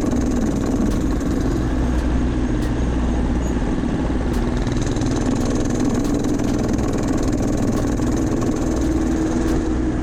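A steady low engine hum running evenly, with no change in pitch or level.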